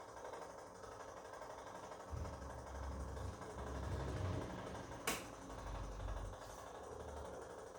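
Bosch Komfort-Klasse washing machine in its wash cycle: a low rumble of the drum turning with the wet laundry starts about two seconds in and dies down near the end, with one sharp click about five seconds in.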